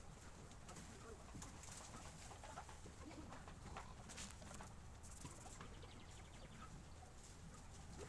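Near silence, with faint background bird calls that include a dove cooing.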